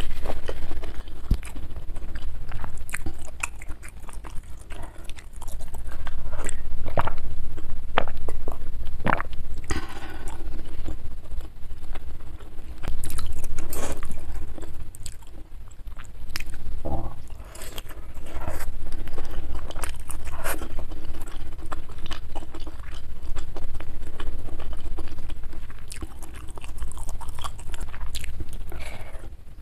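Close-miked chewing and biting: irregular wet mouth clicks and crackles of someone eating beef meatballs, egg and glass noodles.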